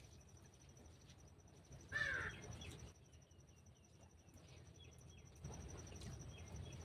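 A single short bird call about two seconds in, followed by a few faint chirps, over a faint steady high-pitched whine.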